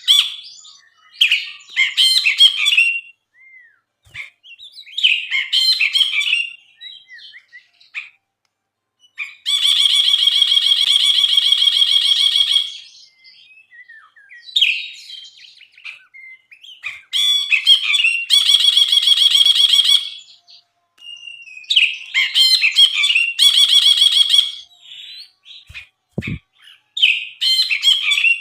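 A brinji bulbul singing loudly in a string of chattering, whistled phrases broken by pauses, with several long rapid trills of two to three seconds each, the first about nine seconds in.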